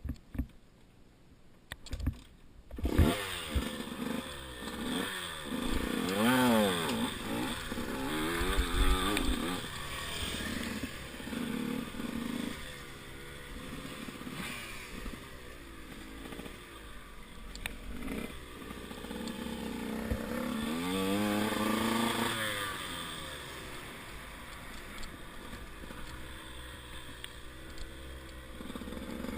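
Enduro motorcycle engine running and being revved up and down several times, with a few knocks in the first seconds before it. The revs peak around six to nine seconds in and again about twenty-two seconds in, then it runs more steadily.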